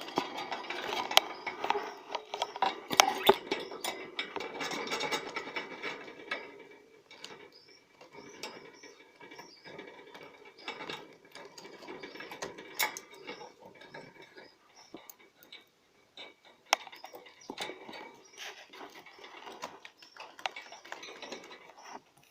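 Male budgerigar warbling: a fast, scratchy chatter of clicks and short chirps, the courtship song that stirs a hen to mate. It is busiest in the first six seconds, then goes on in sparser bursts.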